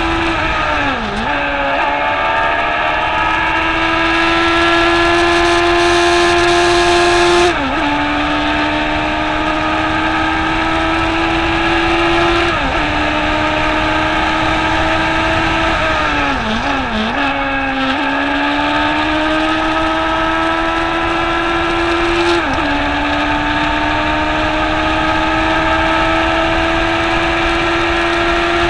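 Racing motorcycle engine at high revs on a flying lap. The note climbs slowly in long pulls and drops sharply for an instant about every five seconds as the gears change, with two quick dips close together about halfway through.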